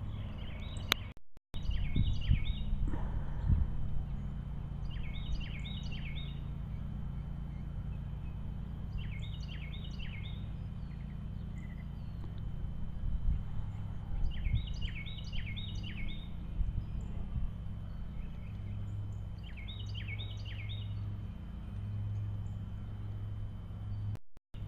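A songbird singing a short phrase of several quick high notes, repeated every few seconds, over a steady low hum.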